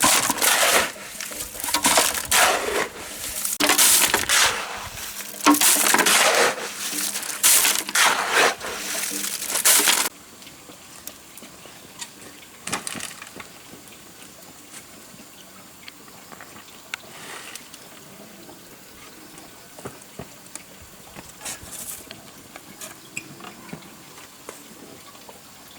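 Loud, rough crunching and scraping in repeated bursts for about ten seconds, which stop suddenly. Afterwards only faint, scattered clicks remain.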